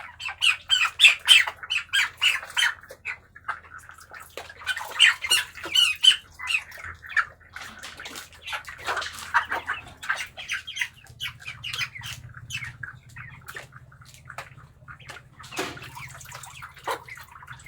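Broiler chickens squawking and peeping in many short, overlapping calls, loudest in the first few seconds and again about five seconds in, over a faint steady low hum.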